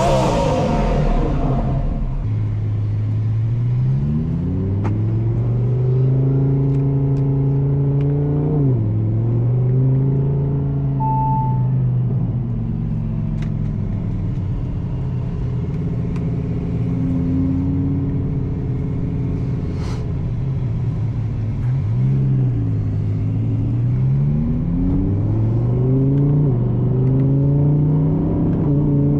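Twin-turbo Audi R8 V10 engine pulling through the gears at moderate throttle. Its pitch climbs steadily in each gear and drops at each upshift, about 9 s in and again twice near the end.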